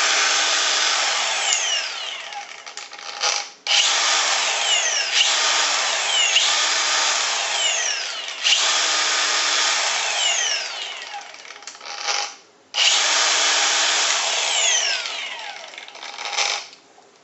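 Milwaukee M18 cordless 4-1/2"/5" paddle-switch angle grinder running free with no load, whining at full speed. It is released and triggered again three times, starting abruptly about four, eight and a half and thirteen seconds in, and its pitch falls as it spins down after each release.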